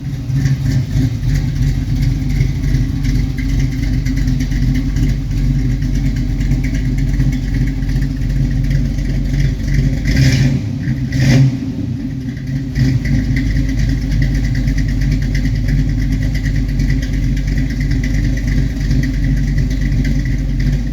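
A 1976 Chevrolet Nova SS's engine running steadily, with two short louder bursts about ten and eleven seconds in.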